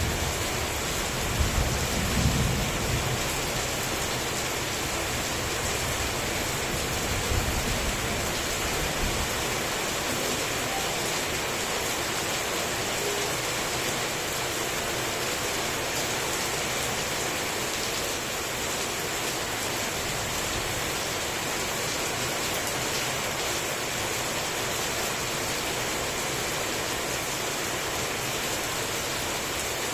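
Heavy rain falling steadily, with low thunder rumbling about a second or two in and again around seven seconds.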